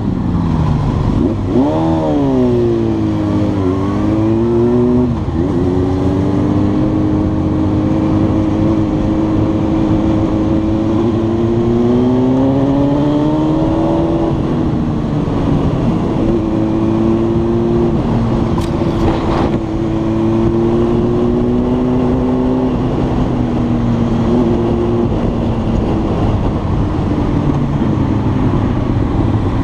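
Honda Hornet's inline-four engine under way. Its pitch climbs sharply about two seconds in, steps back down through gear changes, climbs again from around ten to fourteen seconds, then holds fairly steady at a cruise. A steady rush of wind and road noise runs underneath.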